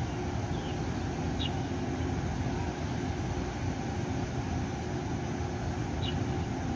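A passenger train standing at a station platform, its on-board equipment giving a steady hum. Two faint, brief high chirps stand out, about a second and a half in and again near the end.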